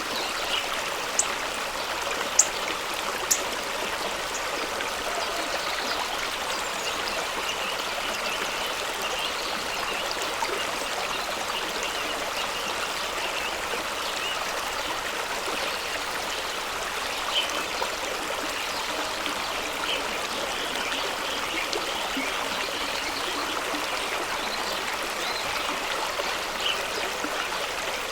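Fast-running stream rushing steadily over rocks. Three sharp clicks stand out in the first few seconds.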